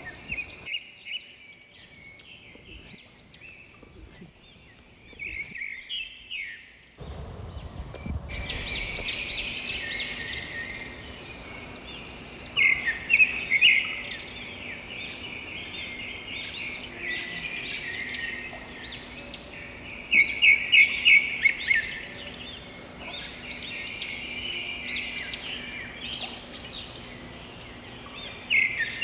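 Birds singing and chirping, several calls overlapping. The loudest are quick runs of sharp repeated notes, a little under halfway in and again past the middle. A steady high hiss sits under the calls for the first few seconds.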